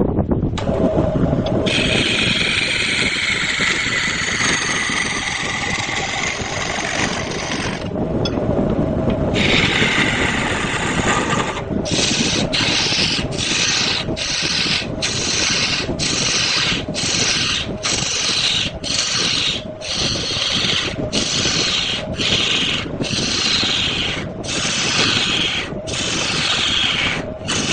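Wood lathe running while a hand tool scrapes against the spinning redwood, a steady low rumble under a high scraping hiss. From about twelve seconds in, the scraping comes in regular back-and-forth strokes, about one and a half a second.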